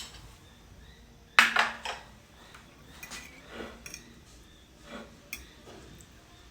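Cutlery scraping and clinking against a plate: a cluster of louder scrapes and clinks about one and a half seconds in, then a few lighter taps.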